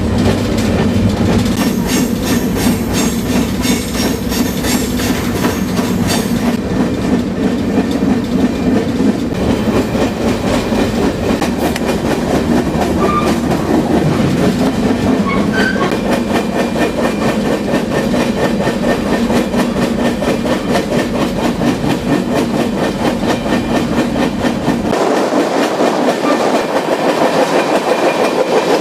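Moving freight train heard from aboard: steady rumble and rattle of the cars with a fast clickety-clack of the wheels on the rails. About 25 seconds in, the deep rumble drops away and the rattle sounds brighter.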